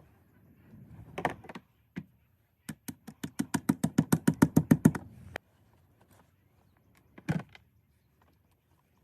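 A fast, even run of knocks, about eight a second for roughly two seconds, with a single knock a second or so before it and another about two seconds after.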